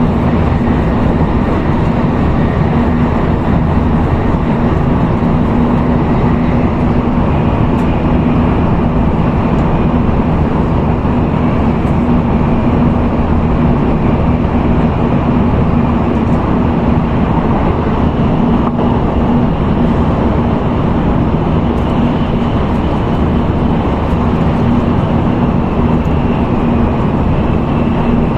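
Steady cabin noise of an N700A Tokaido Shinkansen train running at speed: even rumble and rush with a constant low hum and a faint high whine, unbroken throughout.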